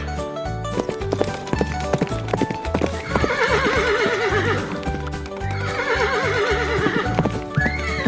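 A horse whinnies twice, each call long and quavering, over a steady clip-clop of hoofbeats. Background music plays throughout.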